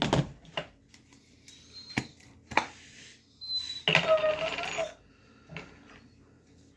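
Small hard clicks and knocks of plastic gouache paint jars and a brush being handled, with short scrapes and a brief squeak about four seconds in, as red paint is taken up.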